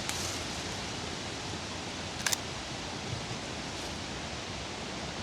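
Steady hiss of outdoor forest ambience, with a short sharp double click about two seconds in.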